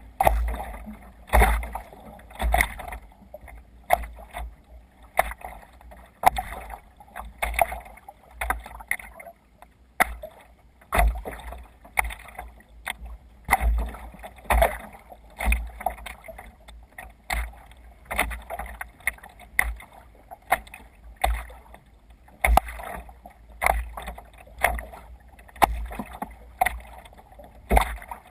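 Water splashing around a sea kayak under way in chop, in a regular rhythm of about one splash a second, over a low rumble and steady water hiss.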